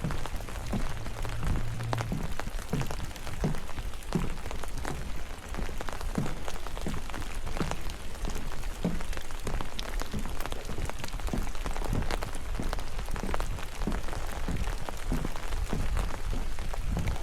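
Steady rain with scattered sharp drip ticks, and footsteps on a wet path at a walking pace of about two steps a second.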